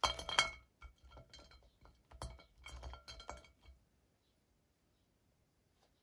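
Small hard objects clinking against each other with short ringing tones, a loud cluster right at the start followed by several lighter clinks over the next few seconds.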